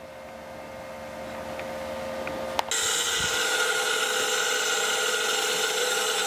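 SGS-612 surface grinder's spindle running with a hum that grows steadily louder. About two and a half seconds in there is a sharp click, then a loud steady hiss as the grinding wheel takes a light skim cut across the machine's table.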